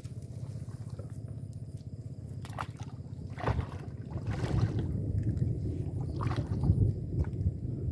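Low rumbling water noise with sloshing and a few short knocks or splashes. It grows louder about halfway through.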